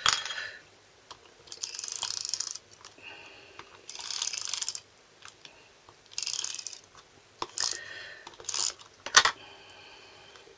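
Adhesive tape runner drawn in strokes across the back of a card panel, laying glue with a ratcheting rasp: three strokes of about a second each, then a few shorter ones and sharp clicks near the end.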